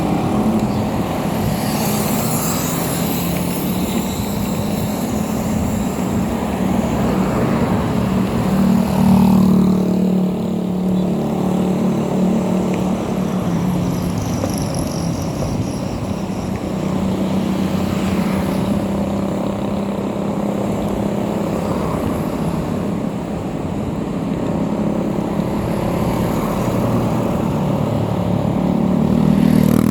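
Motorcycle engine running steadily during a ride, its hum rising and falling slightly.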